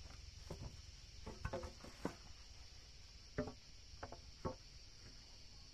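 Steady high-pitched drone of insects such as crickets, with about six short, sharp knocks or clucks standing out over it.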